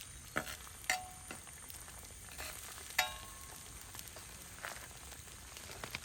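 Food sizzling in a frying pan while a metal utensil stirs it, knocking against the pan a few times; the loudest knock, about three seconds in, rings briefly.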